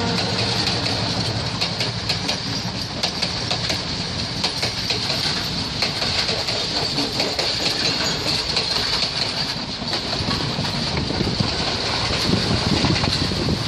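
Passenger train carriages rolling past close by, steel wheels clicking over rail joints above a steady rolling rumble and hiss. The clicks thin out after about ten seconds.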